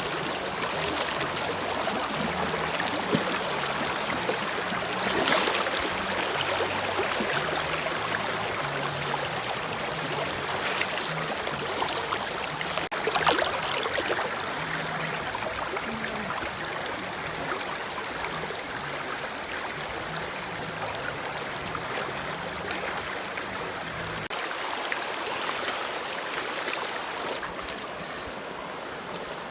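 Creek water rushing and splashing over rocks in a steady, loud rush, with brief louder splashes about 5 and 13 seconds in.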